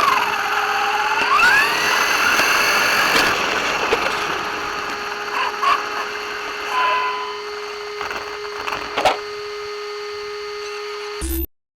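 RC car's electric motor whining, its pitch sweeping down and back up with the throttle, then settling into a steady hum. It cuts off suddenly near the end.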